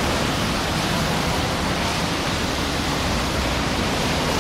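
Steady, even rushing noise of outdoor ambience in drizzling rain.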